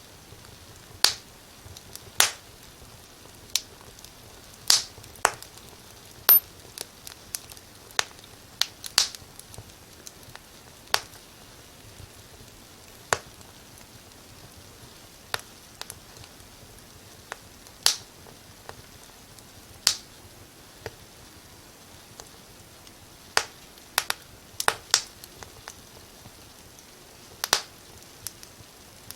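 Wood fire crackling in a fireplace: irregular sharp pops and snaps, a few in quick clusters, over a faint steady hiss.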